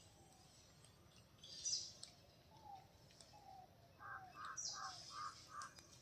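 Several birds calling faintly: a few short falling whistles, a run of five quick even notes about four seconds in, and sharp high chirps, the loudest just under two seconds in.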